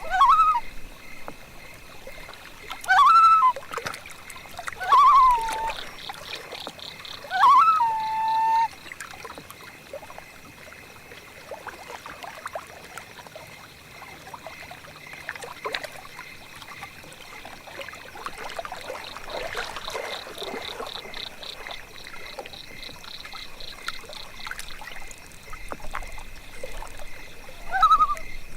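Loon calls: several short cries that sweep up and then fall, the last of the early group settling on one held note for about a second, in the first nine seconds and again near the end. Between them a steady high hum, with a stretch of fast high ticking in the middle.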